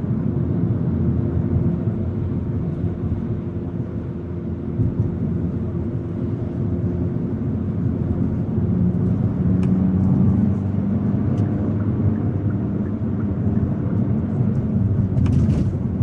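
Hyundai Elantra N's turbocharged four-cylinder engine running under way with steady road noise, as the car cruises. The engine note lifts a little about nine seconds in, and a few light clicks come near the end.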